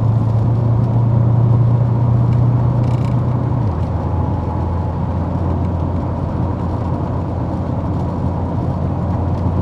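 Cabin drone of a Callaway twin-turbo C4 Corvette V8 cruising at road speed, with tyre and road noise; the low engine hum drops a little in pitch about four seconds in.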